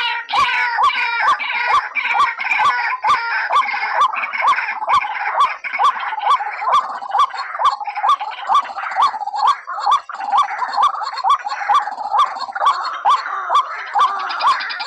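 White-breasted waterhen calls played as a bird lure: a dense, overlapping chorus of harsh repeated calls in an even rhythm of about two to three a second, over a steady ticking beat.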